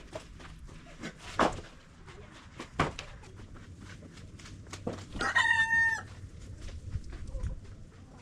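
A rooster crows once, a short held call about five seconds in, with a few sharp knocks of wood before it.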